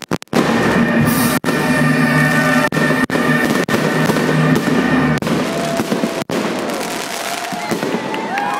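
Fireworks going off: dense crackling with repeated sharp bangs, with music playing underneath for the first half.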